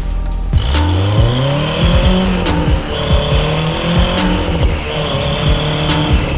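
Off-road vehicle's engine revving hard: the pitch climbs from about half a second in, then holds high and rises and falls in steps as the wheels spin and dig in deep snow. Background music with a regular beat runs under it.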